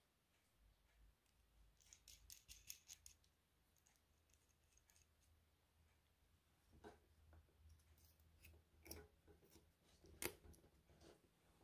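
Faint clicks and light metallic ticks from hands handling a cable and a small bent metal guide tube while fitting them. There is a quick run of small clicks about two seconds in, then scattered ticks and knocks later, the sharpest near the end.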